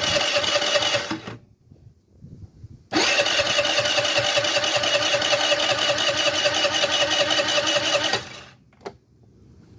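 The electric starter of a 2005 Omega 50cc moped engine cranks it in two steady whirring runs: one stops about a second in, and a longer one of about five seconds starts three seconds in. The engine does not catch and run, though the owner says it has spark and fuel. A short click follows near the end.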